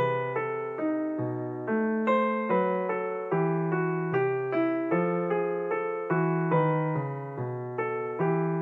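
Background piano music: notes struck at an even pace, each fading before the next.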